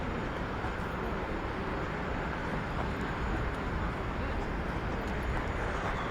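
City street ambience: a steady wash of traffic noise with a low rumble underneath.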